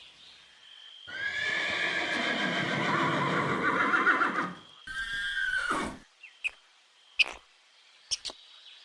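Horse whinnying: one long neigh lasting about three and a half seconds, then a second, shorter one. A few faint clicks follow.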